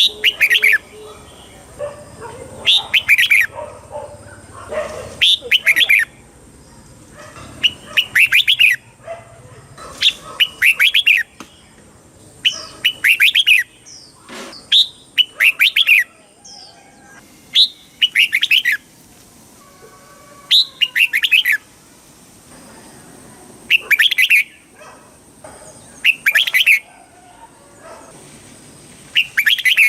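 Red-whiskered bulbul singing: short, loud, bright whistled phrases repeated about every two to three seconds.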